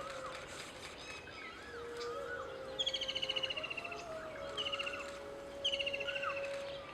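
Wild birds calling: a fast, slightly falling trill of rapid notes comes three times, about three, four and a half and five and a half seconds in, over short up-and-down whistled calls and a steady held tone underneath.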